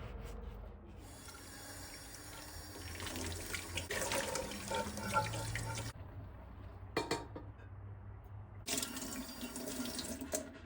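Tap water running into a sink, turned off abruptly about halfway through, then running again briefly near the end, with a couple of light knocks in between.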